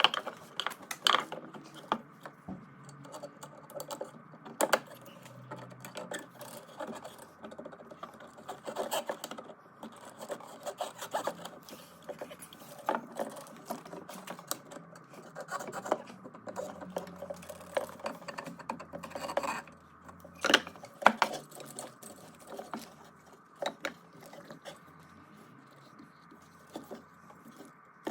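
Hands fitting a new fuel pump and its hose clamp onto the pump bracket: irregular rubbing and scraping of parts, with scattered clicks and a few sharper knocks, the loudest about 20 seconds in.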